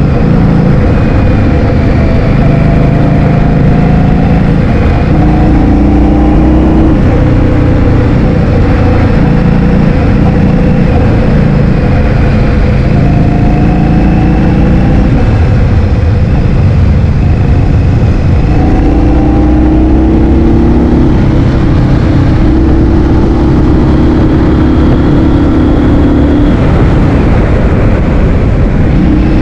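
Loud wind buffeting on the microphone while riding a scooter, over the steady hum of its motor, whose pitch drifts slowly up and down with speed.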